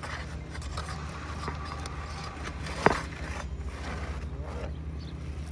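An asphalt roof shingle being worked loose and pulled out by hand and tool: scraping and rustling, with one sharp crack about three seconds in, under a steady low hum.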